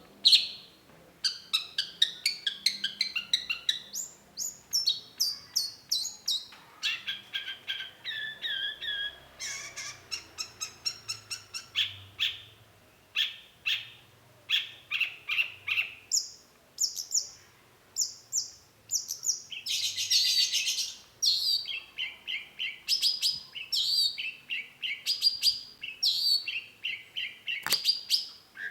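Long-tailed shrike singing a fast, varied song: rapid runs of repeated high chattering notes that change phrase every few seconds, with a harsh rasping note about twenty seconds in.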